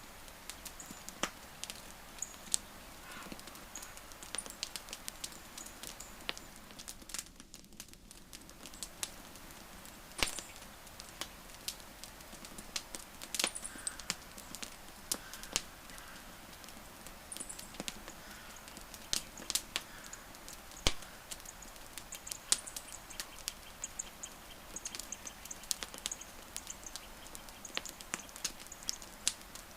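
Burning wood crackling, with irregular sharp pops over a steady low hiss. Faint high bird chirps come in now and then.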